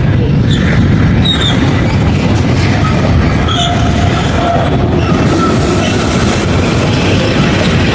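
A train passing close by: a loud, steady low rumble with short, high squeals from its wheels on the rails.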